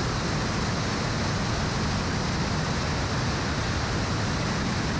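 Steady, even rushing noise inside a T-28 in flight, its radial engine and the airflow blended into one unbroken hiss with no distinct tones.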